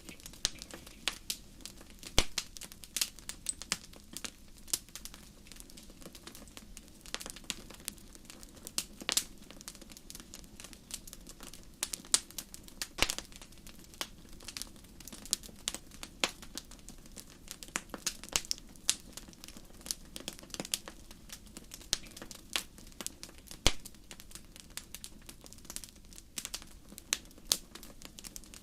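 Wood campfire crackling: irregular sharp pops and snaps, a few much louder than the rest, over a steady low rush of burning.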